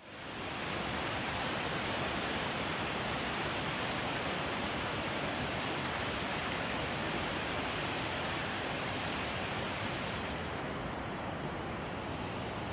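Swollen river in flood, its fast water rushing steadily. It fades in over the first second and thins slightly about ten seconds in.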